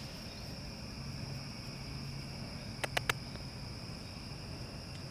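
Steady high-pitched insect chorus with a faint low hum beneath it, broken by two or three short, sharp clicks about three seconds in.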